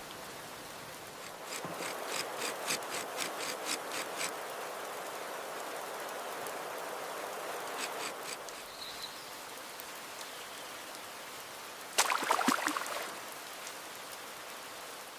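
Steady rain hiss. A quick run of clicks comes about two seconds in, and a short, louder rustling scrape about twelve seconds in.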